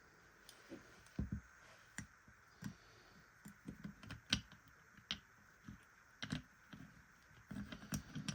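Irregular light clicks and taps of small hard parts and tools being handled, about fifteen in all, some with a dull low knock.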